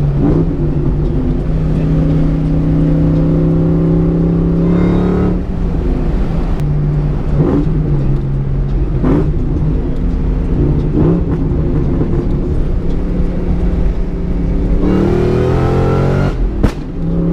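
Supercharged 4.6-litre V8 of a 2003 SVT Cobra through Borla Stinger exhausts, heard from inside the car while driving: the engine note climbs through a gear, drops at a shift about five seconds in, runs steadier for a while, then climbs again and drops at another shift near the end.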